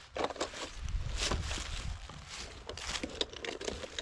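Footsteps walking over the woodland ground, with uneven rustling steps.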